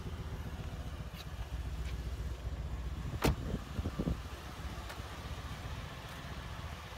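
Mercedes-AMG C63 S's 4.0-litre twin-turbo V8 idling with a steady low rumble. A single sharp click about three seconds in, followed by a few lighter knocks.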